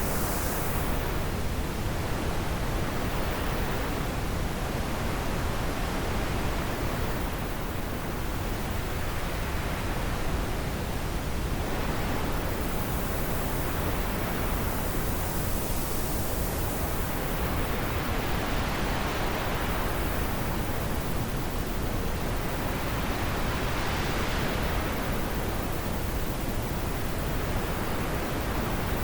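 Steady wind, a constant rushing hiss that swells and eases in slow gusts every few seconds.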